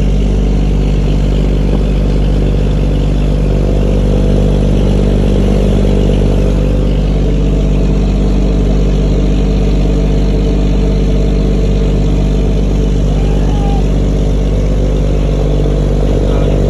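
Fishing boat's engine running steadily at a constant pitch, a loud, even low hum heard on board while the net is set out.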